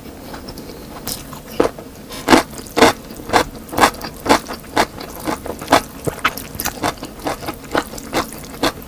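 Close-up eating sounds: a person chewing crunchy fried food, a steady run of crunches about two a second.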